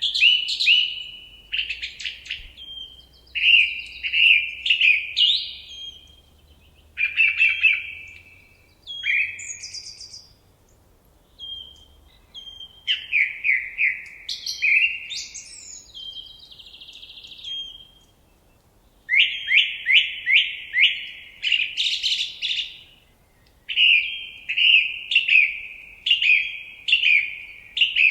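A songbird singing loud phrases of fast repeated notes and short trills, each phrase a second or two long with brief pauses between.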